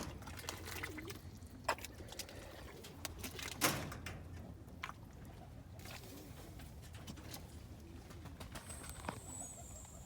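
Roller pigeon cock birds cooing, with a few sharp knocks, the loudest about three and a half seconds in.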